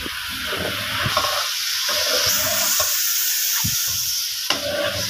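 Potatoes and cauliflower in masala sizzling in hot oil in an aluminium pot while a spoon stirs them, knocking and scraping against the pot now and then. The sizzle gets louder about two seconds in. This is the bhuna stage, frying the vegetables in the masala until the oil separates.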